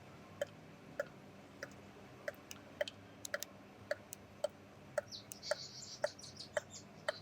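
Sharp, evenly spaced clicks, a little under two a second, each with a short ring to it. Short high chirps join in about five seconds in and stop shortly before the end.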